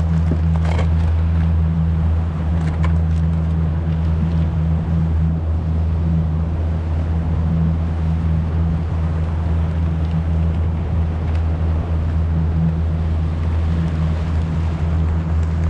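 Steady low drone of a boat motor running at constant speed, with water hiss beneath it; a few light knocks in the first three seconds.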